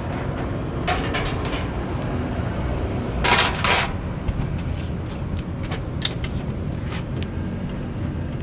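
Food-prep handling at a wood-fired rotisserie chicken stall: scattered clicks and light clatter over a steady low rumble, with a short loud rustling burst about three seconds in.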